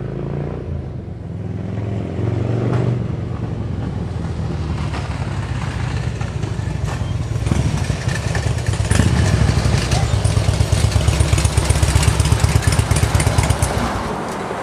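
2003 Harley-Davidson Road King's Twin Cam 88 V-twin running through B&E Max 2 slip-on mufflers, getting louder as it comes close and settling into a deep, loping, pulsing beat. The engine is shut off near the end, followed by a sharp click.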